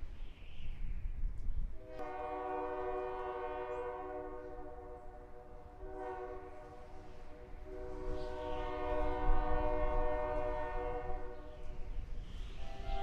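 Locomotive air horn sounding a chord of several notes in three blasts, the last the longest, starting about two seconds in, over a low rumble.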